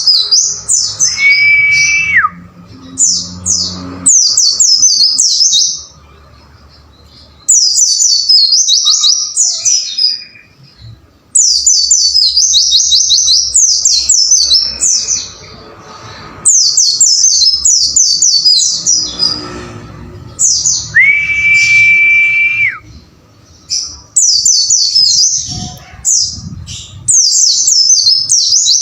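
White-eye (pleci) song: phrases a few seconds long of rapid, very high, falling chirps, broken by short pauses. Twice a long, steady, lower whistle is held for about a second and a half.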